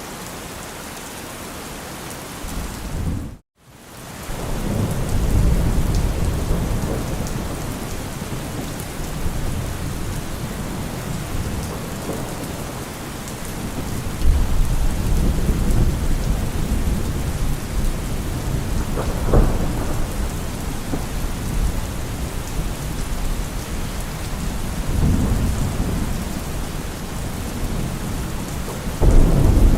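Steady heavy rain with long, low rolls of thunder rumbling in and out several times. The sound cuts out completely for a moment about three and a half seconds in, then comes back.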